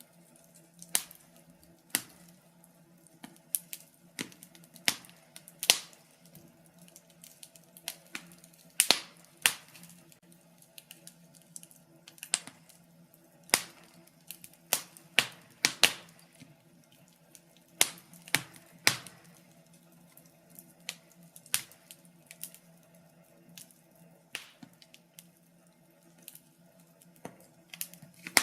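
Wood fire burning in a fireplace, crackling and popping at irregular intervals, some pops much sharper than others, with a faint steady hum underneath.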